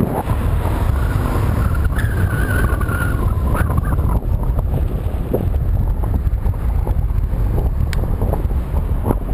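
Wind buffeting the microphone of a camera on a moving bicycle, a steady low rumble, with road traffic running alongside. A faint wavering whine passes about two seconds in.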